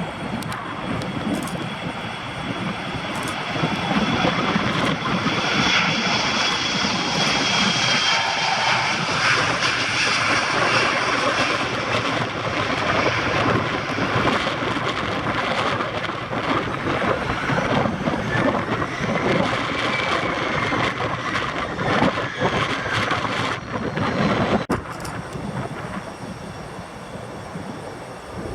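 Jet airliner engines: a loud steady roar with a faint high whine, growing louder about four seconds in and dropping away after about twenty-five seconds.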